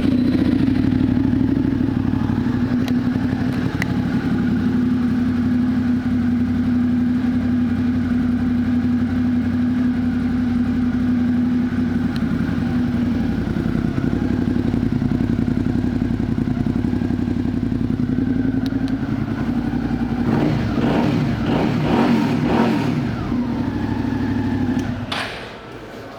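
Suzuki Gladius 650's 90-degree V-twin, fitted with an aftermarket M4 exhaust, idling steadily. About twenty seconds in it is revved up and down several times, then shut off near the end.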